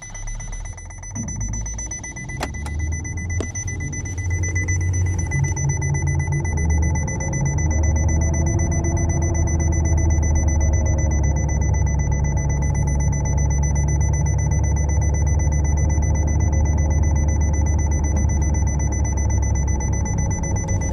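Hyundai Accent's drivetrain running in drive with the wheels spinning freely, speeding up over the first several seconds and then holding steady, with a low hum from the transmission: the sign of a worn differential bearing inside the transaxle, as the mechanic diagnoses it. A steady high-pitched electronic tone sounds alongside.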